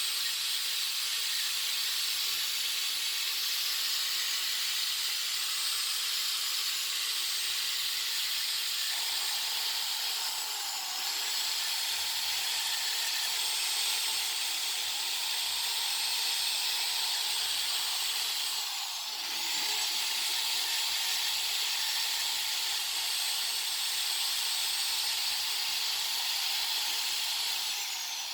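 High-speed rotary tool running steadily with a hissing, high whine. Its pitch sags briefly and recovers three times, as if pressed into the work.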